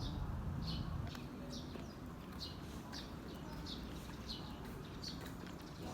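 A small bird chirping over and over, short high chirps evenly repeated about three every two seconds, over a low background hum.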